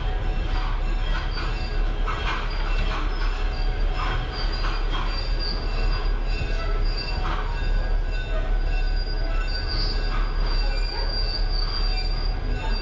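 Caboose rolling along the track behind a diesel locomotive: a steady low rumble with irregular knocks from the running gear about every second, and a thin high wheel squeal that grows stronger about ten seconds in.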